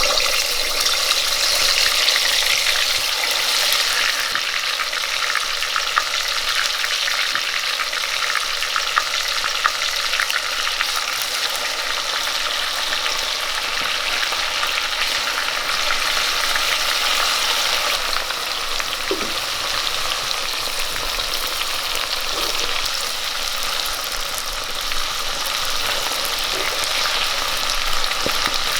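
Marinated chicken pieces deep-frying in hot oil in a pan: a loud, steady sizzle with a few sharp pops.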